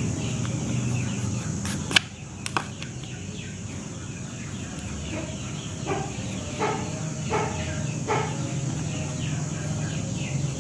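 Two sharp clicks about two seconds in, the first the loudest, over a steady background with faint birdsong; in the second half, four short calls come about 0.7 s apart.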